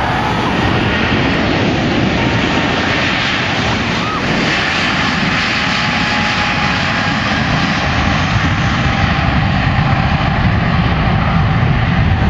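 Twin General Electric GE90 turbofans of a Boeing 777-200ER at takeoff power, a loud, steady jet engine rush. Near the end the sound turns deeper and a little louder.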